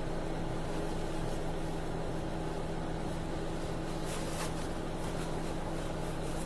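Buran snowmobile's two-stroke engine idling steadily, with a brief hiss about four seconds in.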